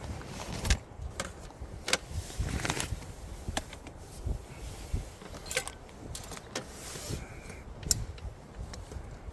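Wood campfire crackling, with irregular sharp pops and snaps among a low rumble of burning.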